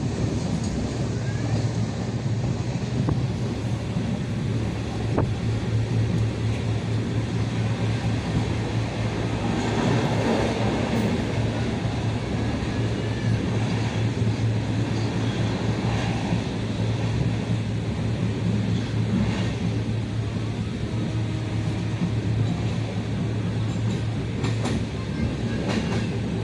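Passenger train running at speed, heard from inside the coach by the window: a steady low rumble of wheels on the track with wind noise.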